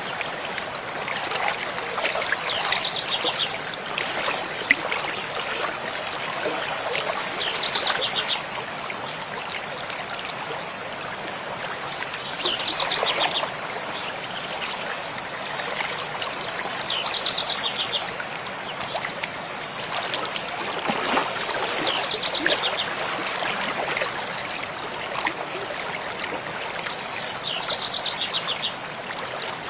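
Mountain stream flowing steadily, with a songbird repeating a short, quick trilled phrase about every five seconds.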